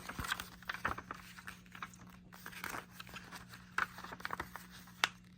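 A paper DVD booklet being handled and turned over: scattered rustling and light clicks, with the sharpest clicks about four and five seconds in.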